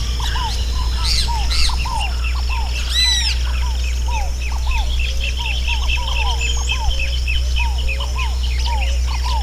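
Many wild birds calling and singing at once in a dense chorus of quick, repeated chirps. A few louder, harsher calls stand out about a second in and again around three seconds in, over a steady low rumble.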